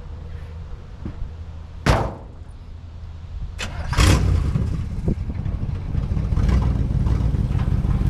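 A 1954 Chevy pickup's engine running, with a door slamming shut about two seconds in. Two more knocks come around four seconds in, and the engine grows louder from there.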